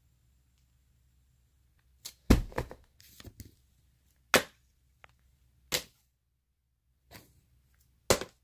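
Handling noise: a string of short, sharp knocks and rustles, about nine of them, starting about two seconds in. The loudest is just after they begin.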